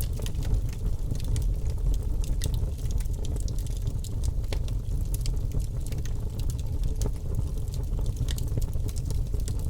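Birch logs burning in a fireplace: many small, irregular crackles and pops over a steady low rumble of the fire.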